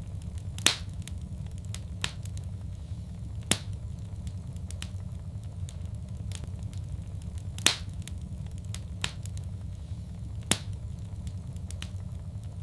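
Wood fire crackling in a fireplace: a steady low rumble under scattered sharp pops and fainter ticks, with the loudest pops about a second in and about two-thirds of the way through.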